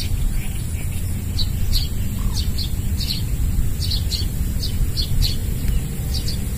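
Small birds chirping in many short, high notes, repeated every fraction of a second, over a steady low rumble.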